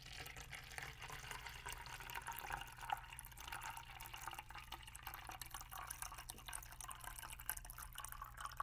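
Water poured slowly from a small bottle into a cup, a faint continuous trickle with many small drips and splashes.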